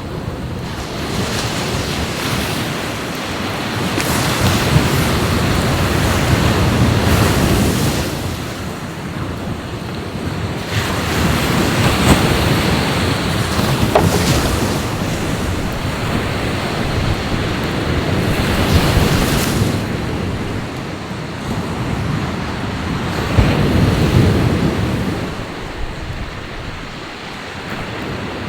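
Sea waves washing onto the shore, the surf surging and falling back every several seconds.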